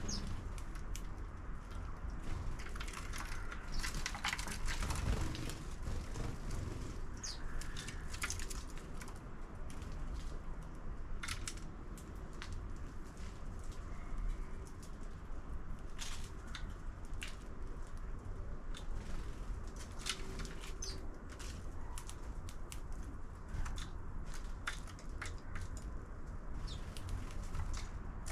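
House sparrows feeding at a 3D-printed plastic bird feeder: scattered sharp clicks and taps of pecking and seed-cracking, with a few brief chirps, over a steady low rumble.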